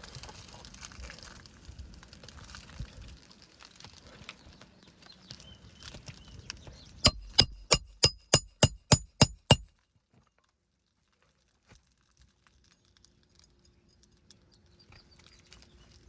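Hammer driving a nail into roof shingles: about nine quick, evenly spaced ringing strikes over two and a half seconds, after light tapping and scraping on the shingles. After the strikes it goes almost quiet.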